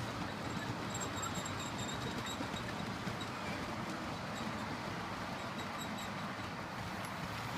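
A train running steadily, an even rumble with faint, short high squeaks scattered through it.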